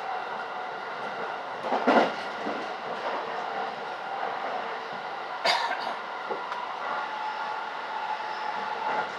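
Electric rapid train heard from inside the passenger car, running steadily with a constant rumble and hum. A louder thump about two seconds in and a sharp clack about five and a half seconds in stand out above it.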